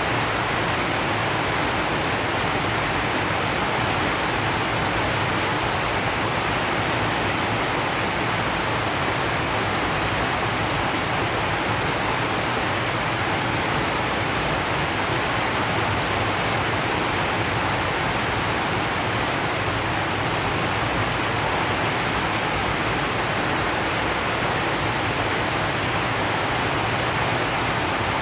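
Rain falling on a zinc roof: a dense, even hiss that holds steady, with no single drops or knocks standing out.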